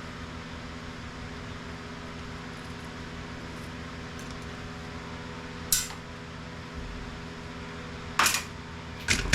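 Small scrap parts from a dismantled printer being dropped onto a hard surface or into a bin: a sharp clink a bit before the middle, another about two seconds later, and a quick clatter of pieces near the end, over a steady background hum.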